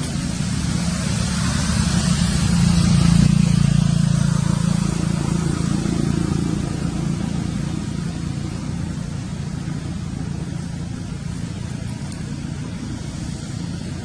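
A motor vehicle's engine running, growing louder over the first few seconds and then slowly fading, as if passing by.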